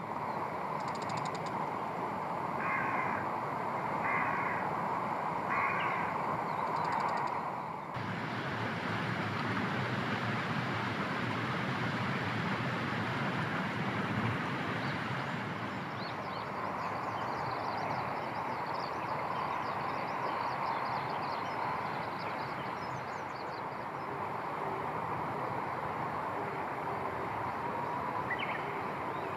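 A crow cawing three or four times in the first several seconds, over a steady noisy background. After a cut, the steady noise goes on with faint high chirps.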